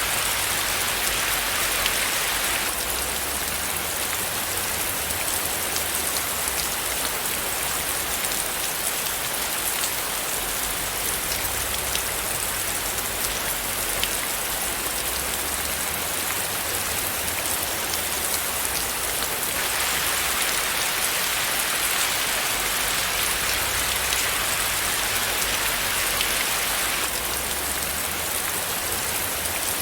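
Steady rain falling on a surface: a dense, even hiss of many drops. It turns brighter and hissier for a few seconds at the start and again for several seconds past the middle.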